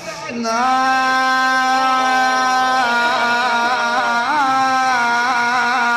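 Male reciter chanting a mourning lament, holding one long drawn-out note with brief wavering turns about three and four seconds in.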